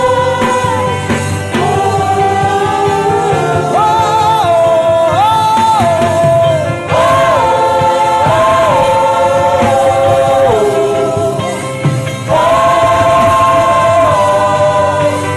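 Worship humming in gospel style: a slow melody of long-held notes that step between pitches, with several voices in harmony. The phrases are broken by short breaks.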